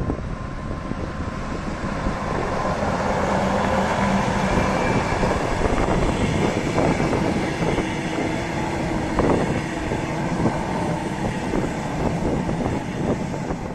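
Passenger train of double-deck coaches rolling past close by: a steady rumble of wheels on rails with irregular clatter as the coaches go by.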